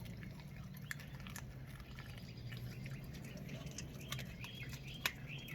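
Dogs chewing on frozen raw tilapia: scattered faint crunches and clicks over a steady low hum, with faint bird chirps near the end.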